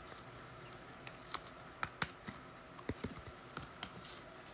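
Faint, scattered light clicks and taps at an irregular pace, about a dozen short sharp ticks.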